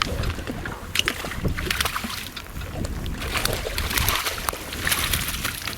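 Water splashing as a hooked smallmouth bass thrashes at the side of the boat, with scattered clicks and knocks. Wind rumbles on the microphone throughout.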